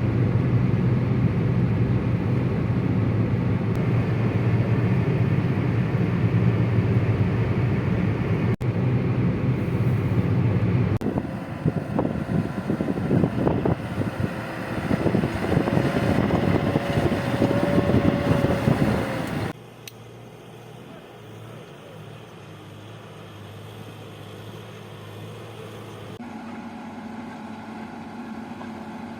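Heavy earthmoving machine engines running across several cut-together clips, the sound changing suddenly at each cut. A loud, steady engine drone is followed by a stretch of irregular knocks and rattles. About two-thirds of the way through it drops abruptly to a quieter engine hum.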